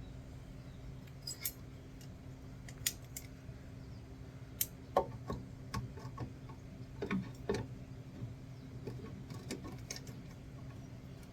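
Scattered metallic clicks and clinks of vise grips (locking pliers) working at fittings on a car radiator, a dozen or so short, sharp ticks at irregular intervals over a faint steady hum.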